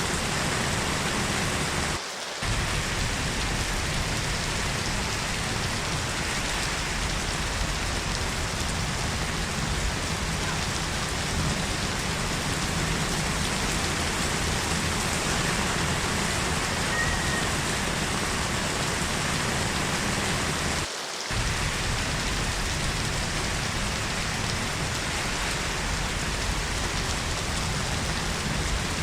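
Steady heavy rain, a dense even hiss with no distinct drops standing out. It briefly drops out twice: about two seconds in and around twenty-one seconds in.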